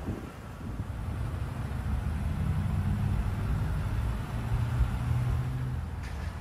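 A vehicle engine running at idle: a low steady hum that swells about a second and a half in and fades near the end.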